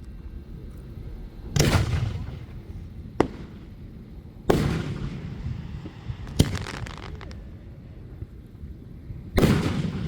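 Aerial fireworks shells bursting: three big booms, each with a long rolling tail, and two sharp single cracks between them, the second followed by a short crackle.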